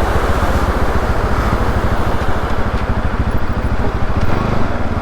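Bajaj Pulsar RS200 single-cylinder motorcycle engine running steadily under way, its rapid low firing pulses heard under wind rushing over the helmet camera's microphone.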